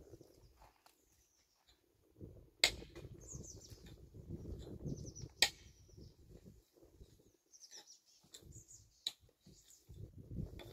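Small birds chirping in short falling notes over low rustling and rumbling. Two sharp knocks come about two and a half seconds apart, the first about two and a half seconds in.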